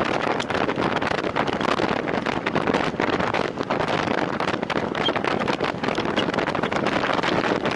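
Wind rushing over the microphone of a camera carried on a time-trial bicycle at race speed: a steady rush full of rapid crackles.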